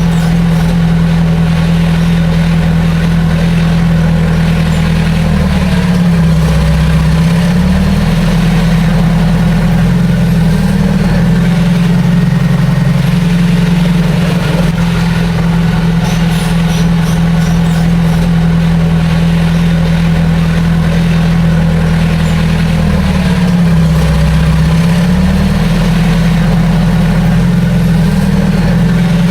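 Heavy diesel engine of earthmoving machinery running steadily. Twice, about six seconds in and again near twenty-three seconds, its pitch sags briefly as it takes load, then recovers.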